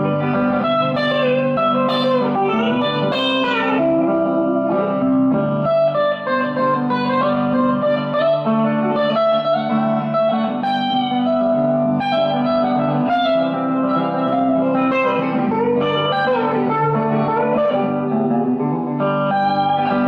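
Electric guitar playing a country-style lead line with string bends and vibrato over a backing track of sustained chords.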